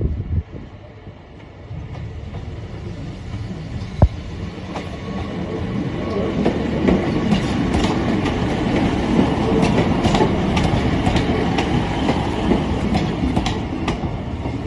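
A two-car diesel multiple unit passing close by, its rumble building over the first few seconds and then holding loud. Through the loud part its wheels give a run of sharp clicks over the rail joints, and there is a single sharp knock about four seconds in.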